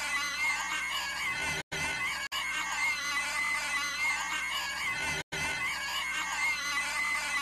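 A cartoon girl's high-pitched, inhuman screeching noise, held on a steady shrill pitch and repeated as a loop, with two brief silent cuts where the loop restarts.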